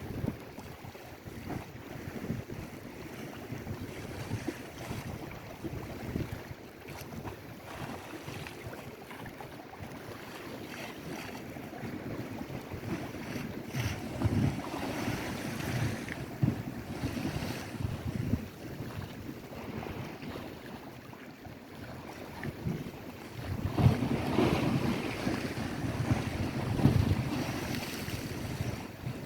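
Lake Erie waves washing on the shore, with wind buffeting the microphone. The noise swells louder about halfway through and again for the last few seconds.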